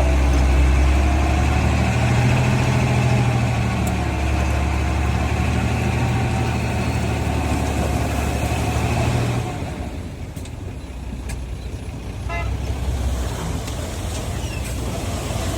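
Heavy diesel engine of earthmoving machinery running loud and steady, with a whine above the low engine note. About two thirds of the way through it drops away to a quieter rumble.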